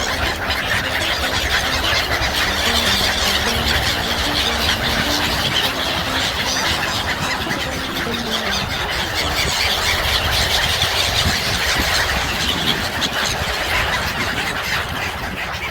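A large flock of gulls screeching and calling over one another without pause. A low steady hum sits underneath during the first half.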